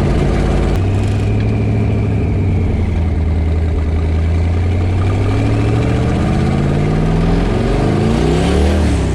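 Twin-turbo Ford 351 small-block V8 heard from inside the car's cabin. It runs steadily at first, then from about halfway revs up under load with its pitch climbing, and the revs fall off just before the end.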